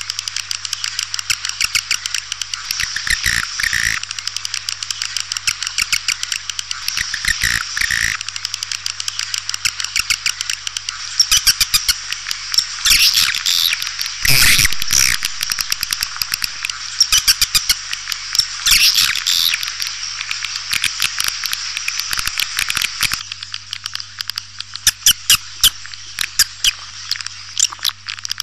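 Swiftlet lure call: a dense, continuous chatter of rapid high twittering chirps and clicks from edible-nest swiftlets, swelling into louder bursts in the middle and easing off near the end, over a faint steady electrical hum. This is the recorded call played to draw swiftlets into a nesting house.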